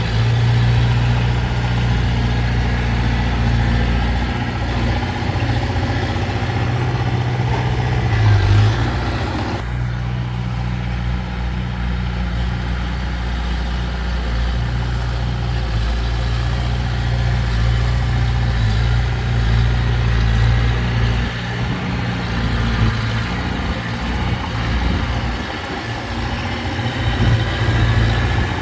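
Diesel engine of heavy earthmoving machinery running steadily, with a short louder surge about eight seconds in. Just before ten seconds the sound abruptly turns duller.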